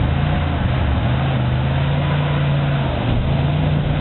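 Off-road 4x4 vehicle's engine running hard, its pitch rising about a second in, holding, then dropping back near the end.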